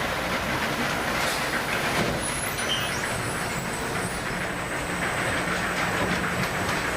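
Steady mechanical rumble and light rattling of a fishing vessel's machinery, with a low hum underneath.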